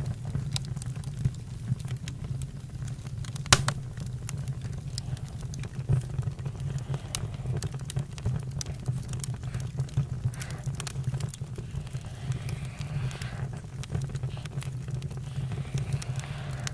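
Campfire crackling: a steady low rumble of burning with scattered pops and snaps, and one louder pop about three and a half seconds in.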